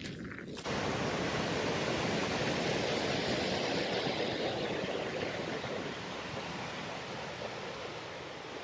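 Waterfall rushing: a steady, dense wash of falling water that comes in suddenly just under a second in and eases a little toward the end.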